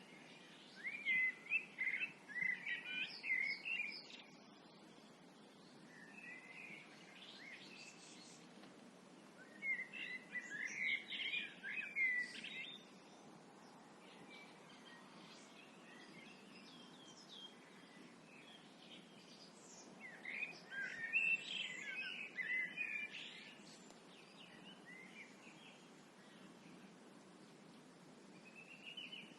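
Songbirds singing at dusk: three bursts of varied song, each about three seconds long and roughly ten seconds apart, with fainter calls between and a steady low background rumble.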